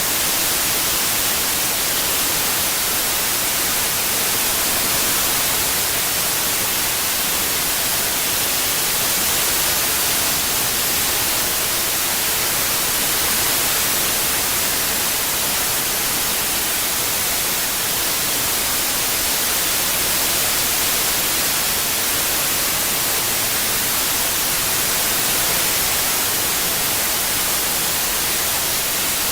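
Steady synthetic white noise, an even hiss strongest in the highest pitches, with no change or break.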